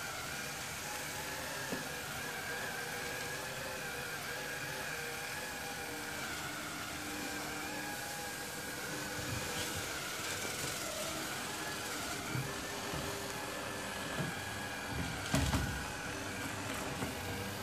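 Sharp robot vacuum cleaner running, its motor giving a steady whine over a hiss of suction and brushes, with a few light knocks, the loudest about three-quarters of the way through.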